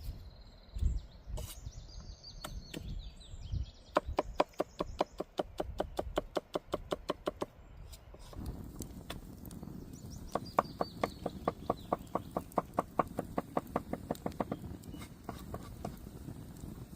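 Rapid, even knocking strokes of a kitchen utensil, about six a second, in two runs. The first starts about four seconds in; the second, over a low rumbling haze, starts about halfway through.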